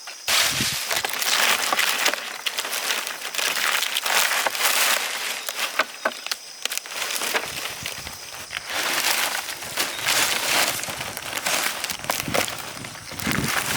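Dry rice stalks rustling and crunching as they are handled during the harvest, in irregular bursts.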